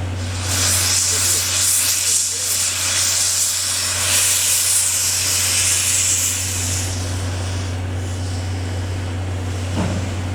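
Steam hissing from a C11 steam tank locomotive, swelling about half a second in and dying away after about seven seconds, over a steady low hum.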